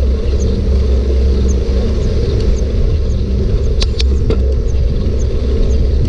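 Steady low rumble of a bike ride, wind buffeting the microphone over the noise of the wheels on the ground. A few sharp rattling clicks come around four seconds in, with faint light ticking about twice a second.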